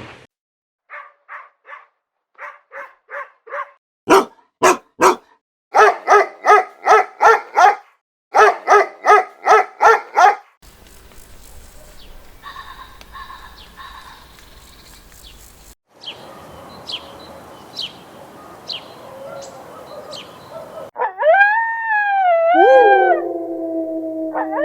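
A dog barking in quick runs of short yaps, at its busiest about three barks a second. A quieter stretch with faint chirps follows, and near the end comes a long howl that wavers, then holds steady.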